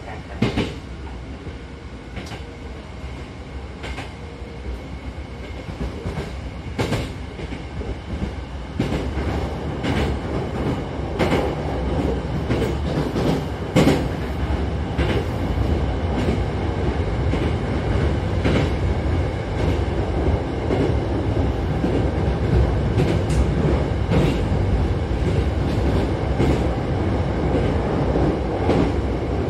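Hankyu electric commuter train heard from inside the car: running rumble with wheels clicking over rail joints. It grows louder over roughly the first dozen seconds as the train picks up speed, then runs on steadily.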